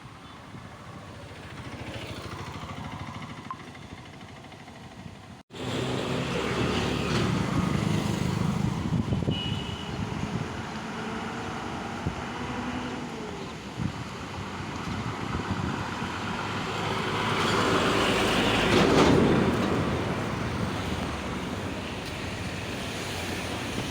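Ashok Leyland Dost light truck driving on the road: steady engine and road noise. It cuts off abruptly about five seconds in and comes back louder, then swells about three-quarters of the way through.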